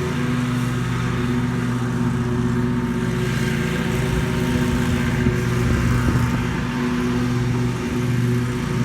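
Small petrol engine of lawn equipment running steadily at working speed, with slight changes in load partway through.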